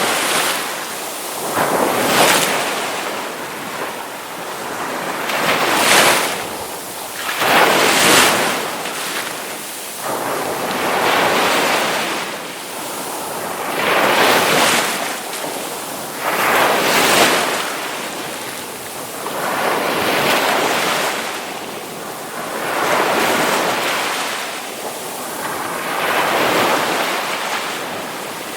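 Ocean waves breaking one after another, each rush of surf swelling up and washing out every two to four seconds.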